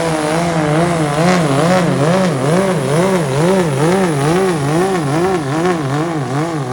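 Diesel pickup's engine at full power pulling a weight-transfer sled, one loud note whose pitch wavers up and down about one and a half times a second.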